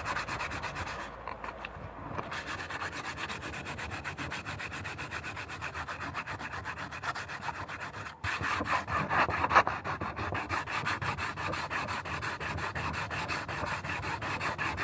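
Sandpaper rubbing over a fiberglass-resin repair patch on a motorcycle fairing in rapid back-and-forth strokes. It breaks off briefly a little past halfway, then carries on louder.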